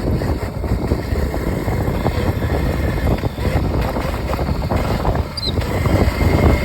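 Wind buffeting the microphone and rough riding noise as a small electric dirt bike, a Razor converted to a 36-volt, 1-kilowatt motor, is ridden over rough ground.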